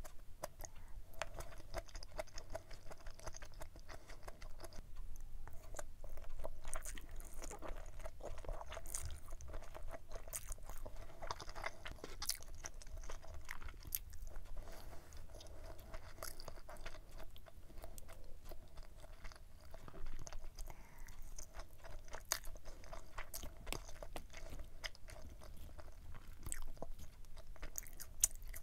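A person chewing and biting food up close: tuna-mayo rice balls and stir-fried pork intestines with vegetables, with frequent small wet clicks and crunches.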